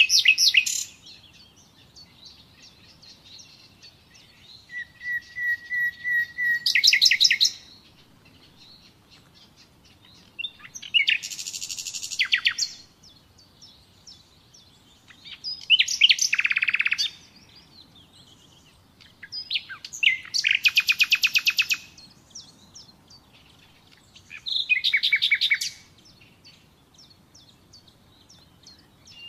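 Nightingale singing: six separate phrases of fast repeated notes and trills, each about two seconds long, with pauses of two to three seconds between them. One phrase opens with a long steady whistle that breaks into a rapid trill.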